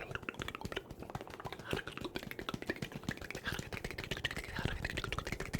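Brush bristles stroked fast across a microphone: a dense run of quick scratchy strokes, many per second.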